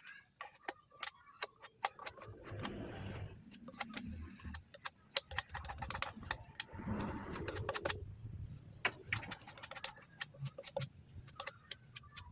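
A putty knife working wood filler into a crack in wood: many irregular small clicks and taps, with two longer stretches of scraping.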